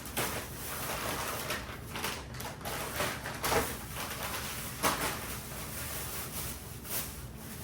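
Groceries being put away in a fridge: scattered short rustles and clunks as items are handled and set down, about half a dozen over several seconds.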